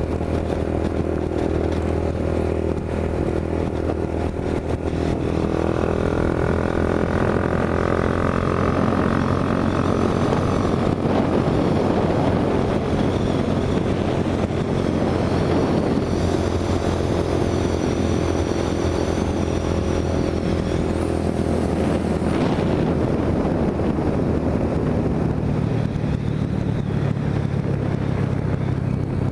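Honda CB 300's single-cylinder engine running while ridden, its pitch rising and falling as it speeds up and changes gear.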